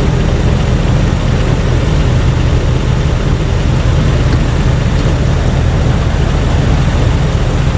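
Steady low vehicle rumble with a noisy hiss over it and no distinct events.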